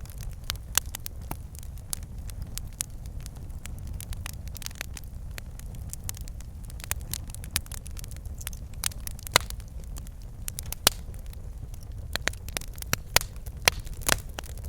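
Wood fire in a fireplace burning with a steady low rumble and frequent irregular crackles and pops, a few sharper pops standing out near the end.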